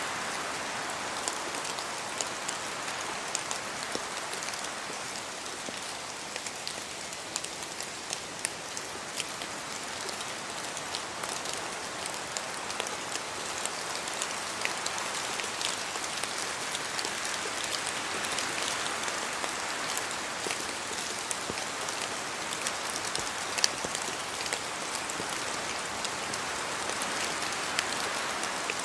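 Steady rain falling through forest trees, with many individual drops pattering sharply on leaves and the ground; a swelling hiss in the middle frequencies, the wind in the trees, rises and falls slowly.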